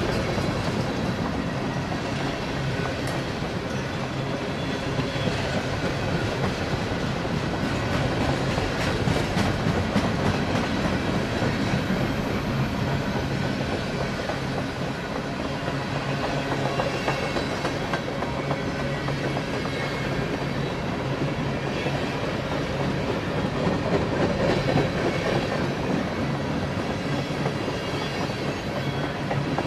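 CSX freight cars rolling past close by: a steady rumble of steel wheels on rail, with many clicks and rattles as the trucks pass.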